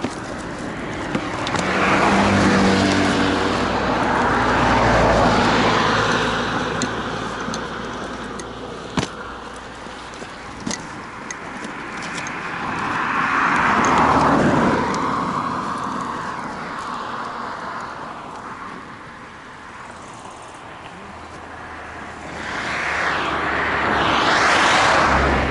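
Road traffic: about four cars passing one after another, each swelling up and fading away. A few sharp clicks fall in a lull between them.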